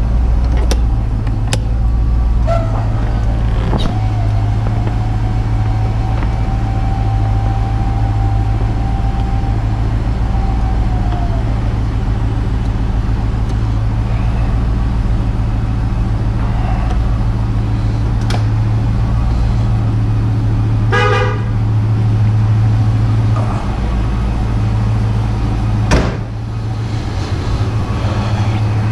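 Ford Mustang 5.0-litre high-output V8 idling steadily, with an electric power-top motor whining for about nine seconds starting a couple of seconds in. Several sharp clicks and knocks, the loudest near the end, with a short chirp in between.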